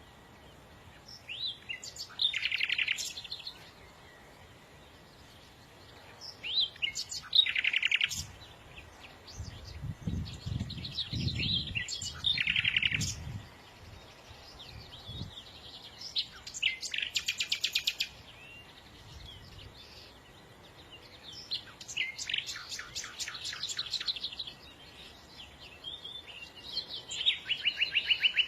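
A songbird singing in six short phrases of chirps and rapid trills, a few seconds apart. A low rumble sounds under the song near the middle.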